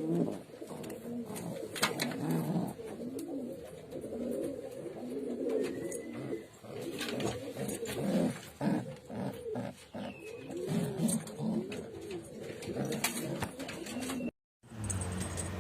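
Domestic pigeons cooing, many overlapping low coos that rise and fall, with scattered sharp clicks and knocks. The sound cuts off suddenly near the end and a steady low hum follows.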